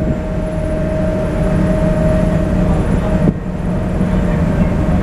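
Passenger boat's engine running with a steady low drone and a held whine that stops about three seconds in.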